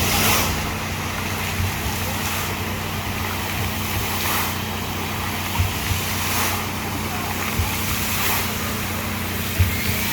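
Outdoor background noise: a steady rush over a constant low hum, swelling softly about every two seconds.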